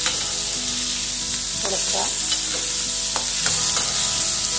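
Ginger, garlic and green chillies sizzling in hot coconut oil in an aluminium wok (cheenachatti), sautéed until the chillies lose their raw green. A steel spoon stirs them, scraping against the pan several times.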